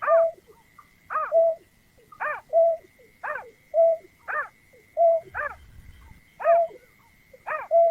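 Greater painted-snipe calling over and over, about once a second. Each call is a falling note followed by a short, level hoot. A faint steady high tone runs underneath.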